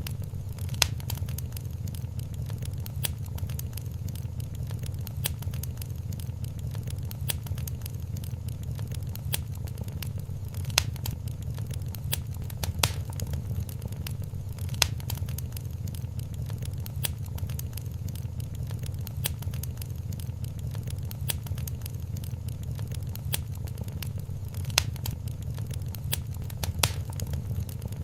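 Wood fire burning in a fireplace: a steady low rumble of the flames with irregular sharp crackles and pops scattered through.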